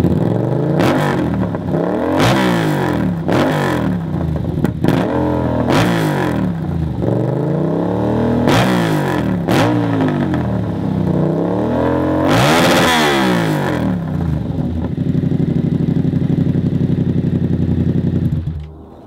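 Yamaha MT-07 parallel-twin engine through an SC Project CRT full exhaust system with no baffle, revved again and again in quick throttle blips, with one longer, higher rev, then running steadily before dropping away near the end. Very loud.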